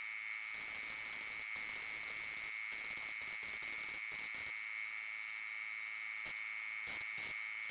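Spray painting with a compressed-air spray gun: a steady hiss of air and paint with a constant high whistle.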